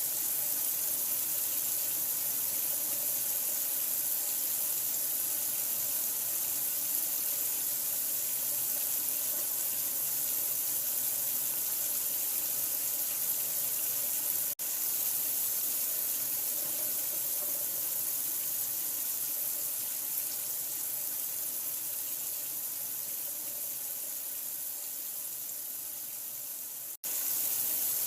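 Steady rush of running water, even and hissy, used as sleep sound for a newborn. It breaks off for an instant twice, about halfway through and again near the end, easing a little quieter just before the second break.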